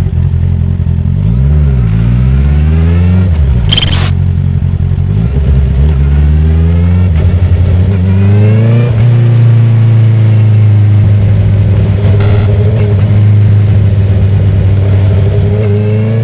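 2019 Honda CB650R inline-four running through a straight-through Akrapovic titanium exhaust with the dB killer removed. The engine pitch dips and climbs in several steps as the bike pulls through the gears on the quickshifter, with a brief sharp crack about four seconds in, then holds steady at speed from about nine seconds in.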